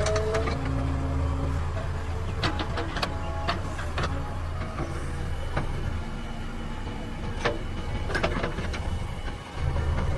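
Diesel engine of a JCB backhoe loader running at work, with sharp metallic clanks from the bucket and arm about two to three seconds in and again around eight seconds. The engine note drops back about six seconds in and picks up again near the end.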